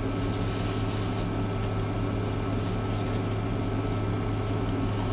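Steady low hum of running machinery heard inside a truck cab, unchanging throughout.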